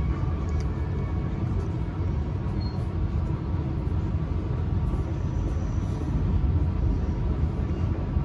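Steady low rumble of a passenger train, heard from inside the carriage.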